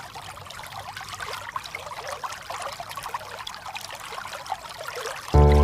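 Water trickling and babbling, a steady splashy burble of flowing water. Loud music cuts in suddenly near the end.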